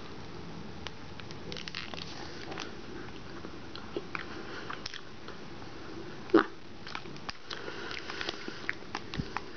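Someone eating a soft strawberry-glazed snack donut: quiet biting and chewing, with small crinkles and clicks from the foil-lined plastic wrapper held in the hands, and one louder snap about six seconds in.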